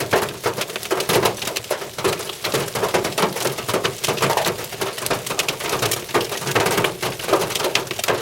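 Hail and rain pelting a car's roof and glass, heard from inside the car: a dense, uneven patter of hard hits.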